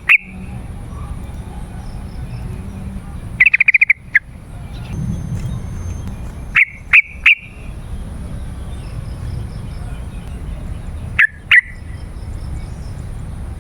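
Yellow-vented bulbul calling in loud, short, sharp chirps, with a quick rattling run of notes about three and a half seconds in and further pairs and triplets of notes later, over a steady low rumble.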